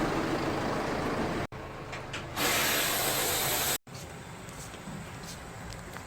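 Car air-conditioning repair noise in short cut clips. A steady rumbling noise comes first, then a loud rush of pressurised gas hissing for about a second and a half in the middle, then quieter background noise with light clicks and taps.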